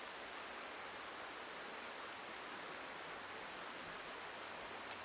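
Steady, even rush of a flowing river, with one sharp click near the end.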